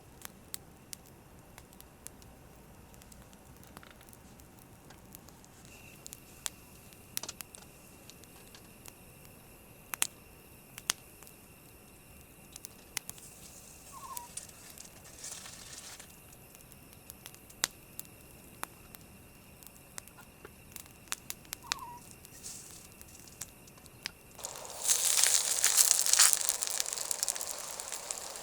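Scattered light ticks and pops over a quiet background, then, about 24 seconds in, a pan over the campfire starts sizzling loudly as food fries.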